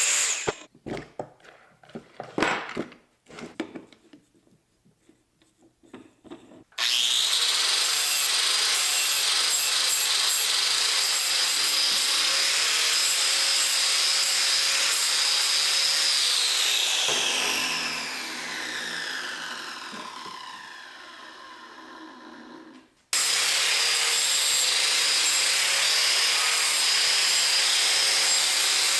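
A few knocks and clatters, then a high-speed electric power tool starts and runs at full speed with a high whine. About halfway through, the whine falls steadily in pitch as the tool spins down. It stops, then the tool runs again at full speed to the end.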